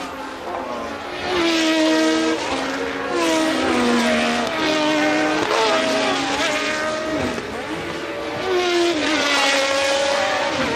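Formula One cars of the 1982 season running at racing speed, engines climbing in pitch and dropping back at each upshift. Several cars go by in a group, getting louder about a second in, then a second bunch comes through near the end.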